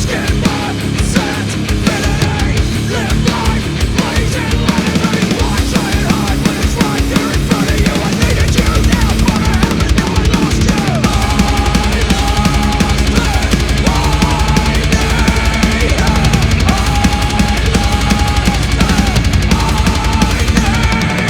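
Black metal music: distorted guitar riffs over fast drumming, with a lead guitar line of held notes riding over a steady low drone in the second half.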